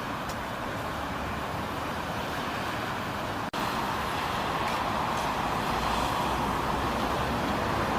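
Steady road and engine noise of a car driving in traffic, as picked up by a dashcam. About three and a half seconds in the sound cuts off for an instant and resumes slightly louder.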